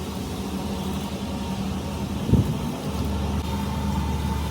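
An engine running steadily, with one thump a little past two seconds in and a deeper hum setting in around three seconds.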